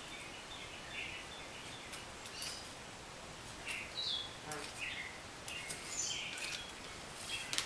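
Faint scattered bird chirps, short calls and small falling glides, with a few light clicks from small parts being handled on a table.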